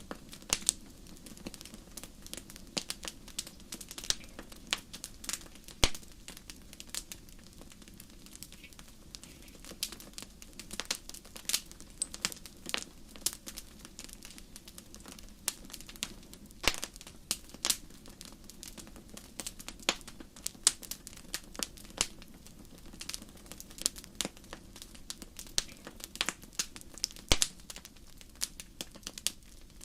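Wood fire crackling in a fireplace: irregular sharp pops and snaps, several a second, over a low steady hiss.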